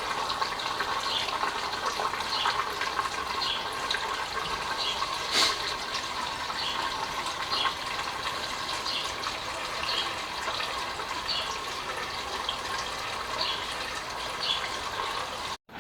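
Gasoline pouring from a can into a motorcycle's fuel tank: a steady splashing stream with a soft regular glug about twice a second. A single sharp click about five seconds in, and the sound cuts off suddenly near the end.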